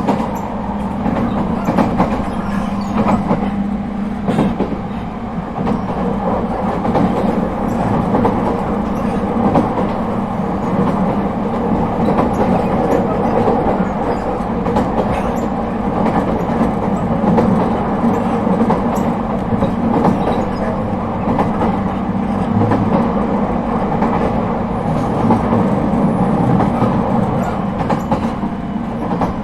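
Inside an Echigo TOKImeki Railway ET127 series electric train (Toyo IGBT-VVVF traction equipment) running steadily between stations: continuous wheel-on-rail rumble with a low hum and scattered clicks as the wheels pass over rail joints.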